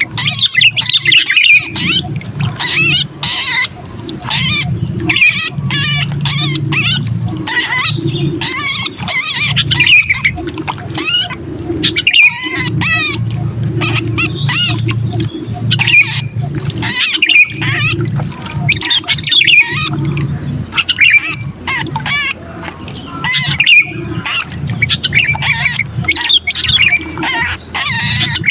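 Sooty-headed bulbul (kutilang) distress calls: a dense, unbroken run of short, quickly bending calls, the cries of a bulbul caught or pinched in a trap, played as a lure to bring other bulbuls down. A low steady hum lies beneath.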